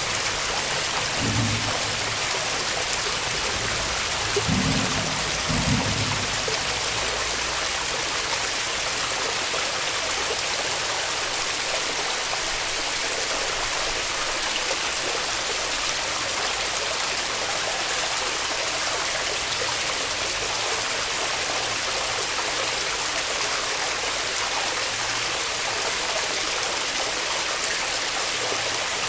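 Waterfall water rushing steadily, with a few short low thumps in the first six seconds.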